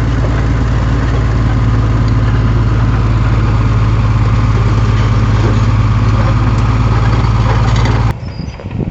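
Heavy diesel engine of an earthmoving machine running steadily with a deep, even drone. It cuts off suddenly near the end, giving way to quieter, uneven rattling sound.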